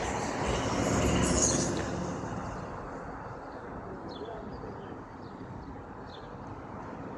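A passing vehicle's broad rushing noise, loudest in the first two seconds and fading away, then a steady low background rumble with a few faint high chirps.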